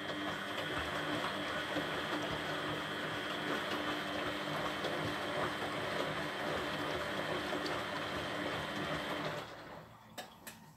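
Beko WTB740E1W front-loading washing machine running mid-cycle: a steady mechanical hum with water noise that cuts off suddenly near the end, followed by two sharp clicks.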